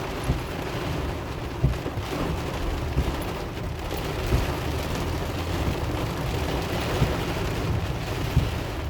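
Rain on a moving car, heard from inside with a steady road and engine rumble, and a short thump about every second and a half.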